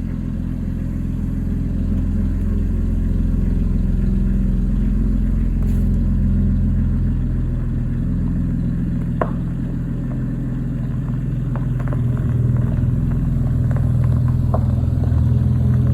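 2012 Chevrolet Impala's V6 engine running with no muffler, catalytic converter or resonator, giving a steady, deep, unmuffled exhaust drone that swells a little a couple of times. A few faint clicks come over it in the second half.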